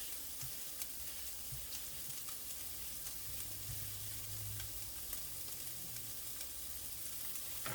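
Onions, peppers and garlic frying in a hot pan: a steady sizzle with faint scattered crackles.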